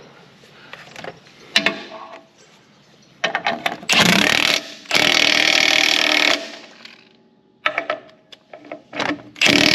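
Impact wrench running in bursts to tighten nuts on bolts; the longest burst lasts about a second and a half. Clinks and clicks of metal tools fall between the bursts.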